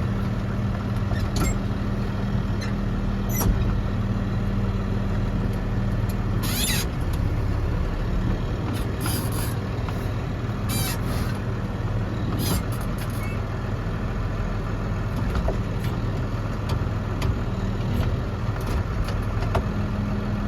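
Farm tractor engine running steadily while it moves a bale into a feeder. Its pitch shifts a little about a third of the way in, and a few brief high squeaks and clanks come in the middle.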